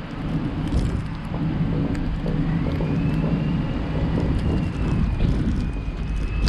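Car driving, with a steady low engine and road rumble and a faint high whine that rises about two and a half seconds in and then holds.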